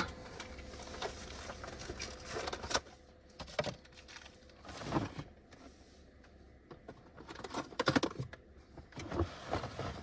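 Scattered rustles and bumps of a frozen meal's box and plastic tray being opened and handled, a few seconds apart, over a faint steady hum.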